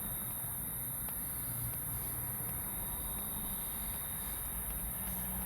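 Steady outdoor background: a low rumble with a continuous high-pitched hiss and a thin steady tone above it, with no clear single event.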